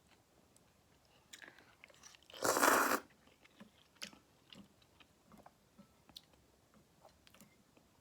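Someone eating ramen noodles: small wet mouth clicks of chewing, and one loud half-second slurp about two and a half seconds in.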